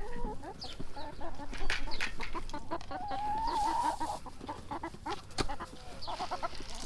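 A flock of backyard hens clucking as they crowd round the feed, with one longer drawn-out call about three seconds in.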